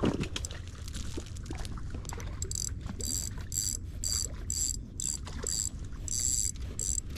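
Daiwa Luvious 2500 spinning reel whirring in short high-pitched bursts, about two a second, as a big crappie is fought in, over a low steady rumble.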